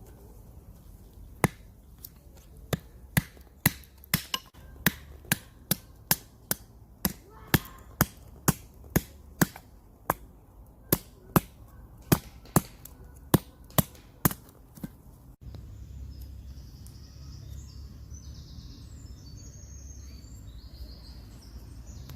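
Wood being chopped: a long run of sharp knocks, unevenly spaced at about two a second. About fifteen seconds in it cuts off abruptly to a steady low outdoor rumble with birds chirping.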